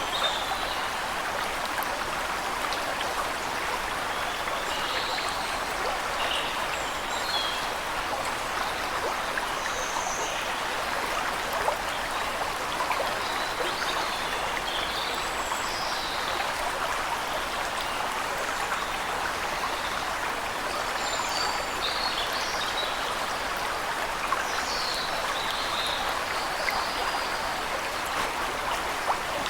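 Waterfall rushing steadily, with birds chirping now and then in short high calls above the water.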